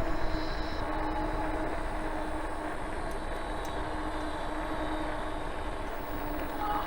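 Ecotric 48V fat tire electric bike in motion: a steady humming drone from the moving bike over a low rumble.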